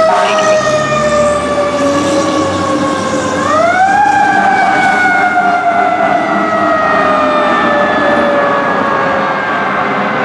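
Fire engine siren wailing as the truck responds: the pitch slowly falls, rises quickly about three seconds in, then slowly falls again.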